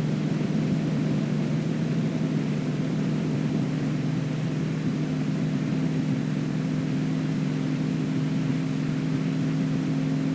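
Extra 300L aerobatic aircraft's six-cylinder Lycoming engine and propeller heard from the cockpit, a steady drone that holds one pitch through the manoeuvre.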